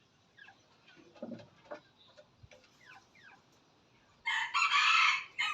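A junglefowl rooster crows once: a loud, broken call lasting about a second, starting about four seconds in, with a short clipped ending. Before it there are faint chirps and a low cluck.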